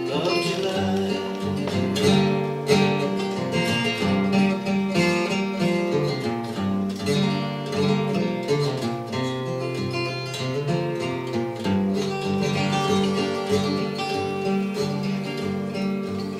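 Acoustic guitar picking an instrumental passage of an old-time folk tune, with steady rhythmic notes and no singing.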